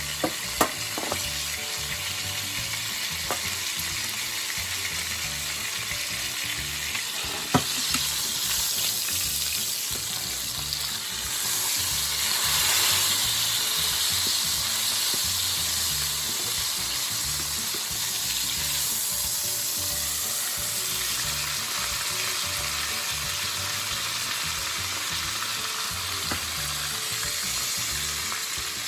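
T-bone steaks frying in a hot pan, a steady sizzle that grows louder for a few seconds midway. A few sharp clicks near the start and again about seven seconds in.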